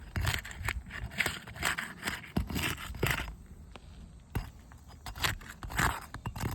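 Asphalt roof shingles being pried loose from their seal strips: irregular scraping and crackling, broken by sharp clicks.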